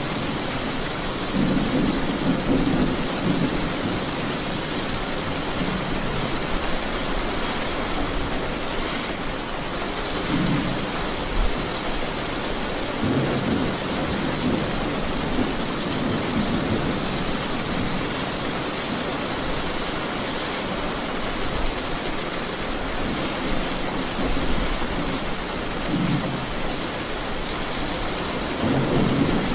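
Steady heavy rain hissing without a break, with low rolls of thunder rumbling several times, the longest about halfway through.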